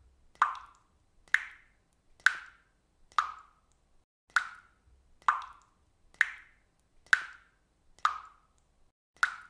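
Water dripping from a faucet: single drops plinking at a steady pace of a little under one a second, about ten in all, each a sharp plop with a short ringing tail.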